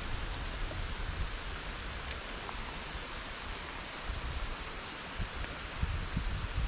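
Steady hiss of rain falling, with a few faint drop ticks. Near the end, wind starts to buffet the microphone with low rumbling gusts.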